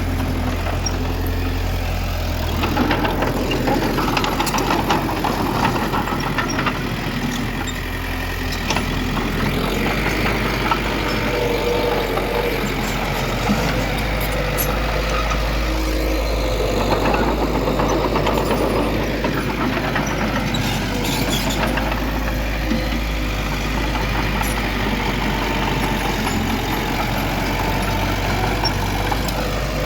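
Heavy diesel engine of earthmoving machinery running at work, its note swelling and easing, with scattered clicks and knocks.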